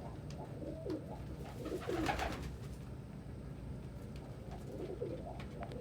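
Domestic pigeons cooing: several low, wavering coos, the loudest about two seconds in and another near the end.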